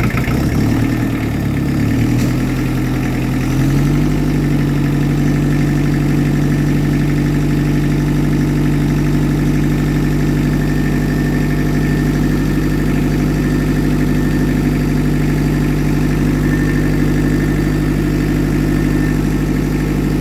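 Old diesel tractor engine running just after a cold start below freezing. It runs unevenly for the first few seconds, then settles into a steady idle about four seconds in.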